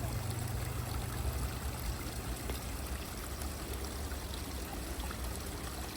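Creek water running steadily, with a low rumble underneath.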